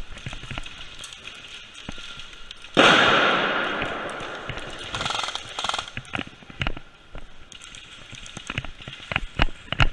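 Scattered sharp snaps of airsoft gunfire. About three seconds in comes a sudden loud burst that fades away over about two seconds, and near the end the snaps come in quicker succession.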